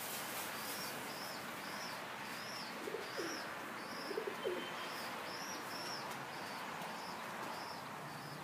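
A small bird chirping over and over, short high chirps about two or three a second, over a steady background hiss. A few faint low cooing notes come in around the middle.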